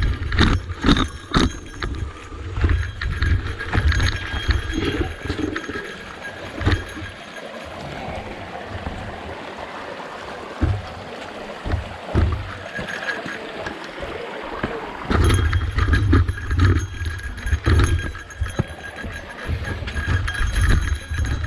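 Electric mountain bike riding a rough dirt trail: wind buffeting the microphone, with frequent knocks and rattles of the bike over rocky ground. The wind rumble drops away for several seconds in the middle, then comes back.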